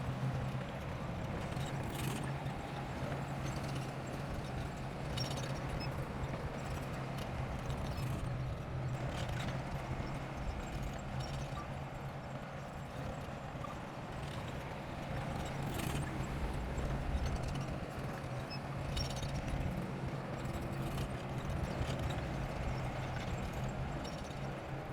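Bulldozer's diesel engine running steadily at a low drone, with sharp metallic knocks and clanks every second or few.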